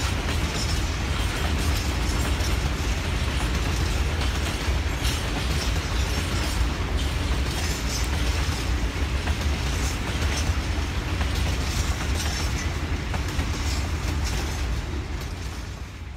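Freight train's wagons rolling past: a steady rumble with wheels clicking over rail joints, fading away near the end.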